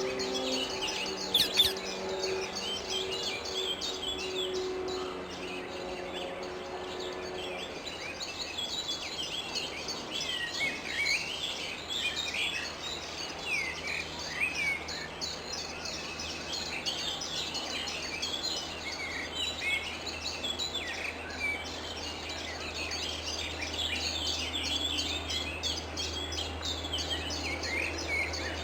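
A flock of wild rose-ringed (Indian ringneck) parakeets calling, a dense chorus of short, overlapping calls that never lets up.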